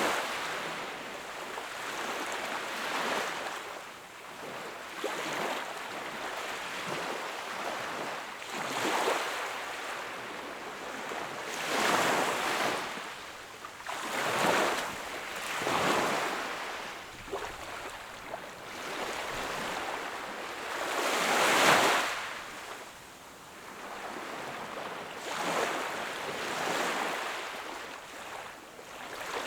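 Sea waves breaking and washing onto the shore, a rushing surge that swells and fades every few seconds, the loudest surges coming about twelve, sixteen and twenty-two seconds in.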